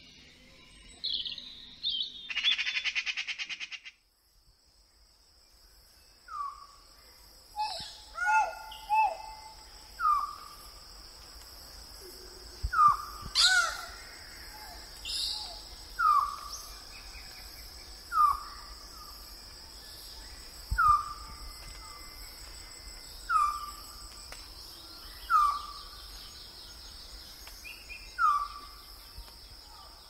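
Trumpet manucode calling: a long series of short, hooked call notes, at first in quick clusters and then about every two seconds, over a steady high-pitched drone. A short buzzing rattle sounds in the first few seconds.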